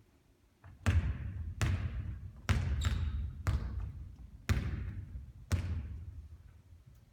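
Basketball bouncing on a hard court, about seven sharp bounces at uneven intervals, each ringing briefly.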